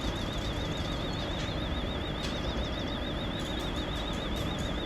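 Steady low rumble of vehicle engines running in a busy car-transporter yard, with a faint high warbling tone throughout.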